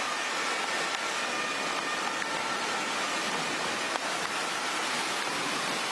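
Steady, even rushing noise of torrential rain and floodwater running through flooded streets.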